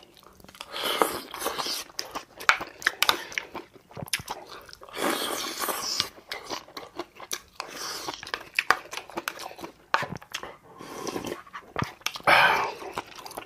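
A person chewing and crunching food close to the microphone, in irregular bursts with sharp clicks in between.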